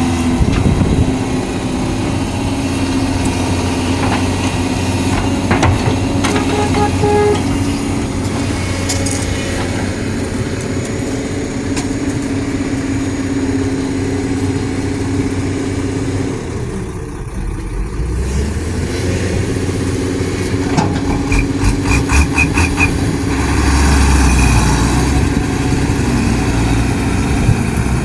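Hydraulic excavator's diesel engine running steadily, with scattered metallic knocks and a quick string of clicks near the end. The engine note dips briefly a little past the middle, then comes back.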